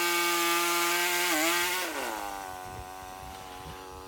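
Small sawmill running with a steady whine and hiss. About halfway through, its pitch slides down and the sound drops in level, then it carries on at the lower pitch.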